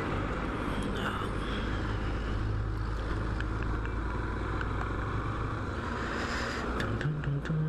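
Steady ride noise from a motorcycle on the road: the engine's low drone with wind and traffic. Background music comes in near the end.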